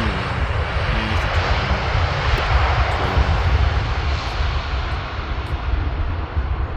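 Jet engine noise of an Airbus A310 freighter on landing approach: a steady, loud rush with a deep, fluctuating rumble underneath.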